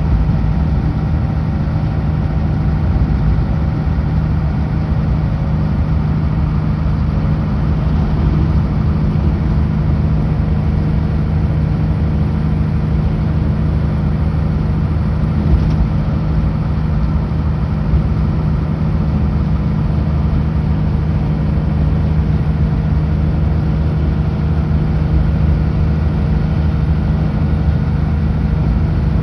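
Kenworth W900L semi truck driving at highway speed: a steady low diesel engine drone with road and tyre noise.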